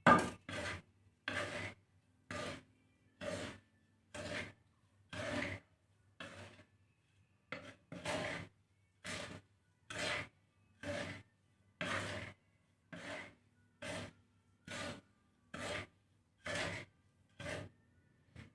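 A spatula scraping and tossing a dry mix of millet, foxtail millet and black glutinous rice in a pan as it is dry-roasted, each stroke a short rasp of sliding grain, about one a second.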